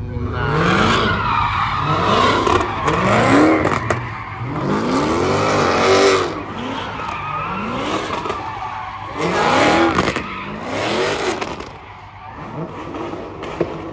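A car engine revving hard again and again, its pitch climbing in about five surges, with tyres squealing as the car spins its wheels.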